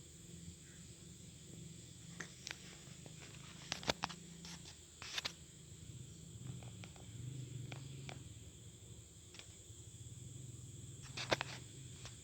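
Honeybees buzzing, a low wavering hum under a steady high insect trill, broken by sharp clicks or knocks about four seconds in and again near the end.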